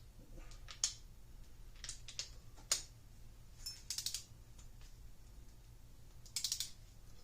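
Ratcheting torque wrench clicking in short, irregular runs as cylinder head stud nuts are tightened to 30 foot-pounds in sequence.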